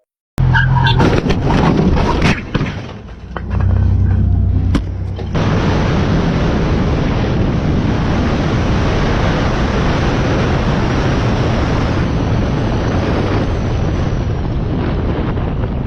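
Motorcycle riding at speed, a low engine drone under a loud, steady rush of wind on the microphone, which takes over about five seconds in after a few seconds of mixed engine sound and knocks.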